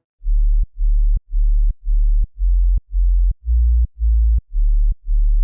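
Synth sub-bass with a sidechain pumping effect: one deep, loud note swells in and ducks out about twice a second, with a short click at each dip.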